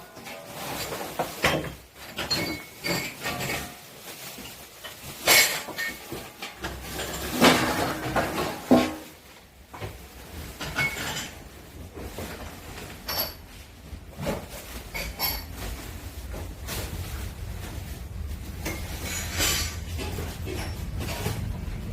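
Household items and furniture being handled and moved: scattered knocks, bangs and clinks, with the loudest bangs in the first half. A steady low rumble comes in about halfway through.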